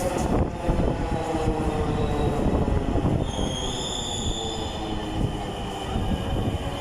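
Dhaka Metro Rail (MRT Line 6) train running on its rails, a dense steady rumble. About three seconds in, a high whine comes in over it and holds.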